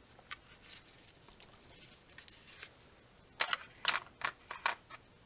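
Handling noise from polyester fiberfill being pulled off and worked into a headphone's vinyl ear cushion: faint light ticks, then a quick run of about five short, sharp rustles and scrapes past the middle.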